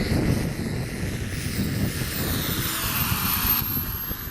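Model-aircraft turboprop engine running, a steady rush of propeller and exhaust noise under a thin, very high turbine whine that sinks slightly in pitch.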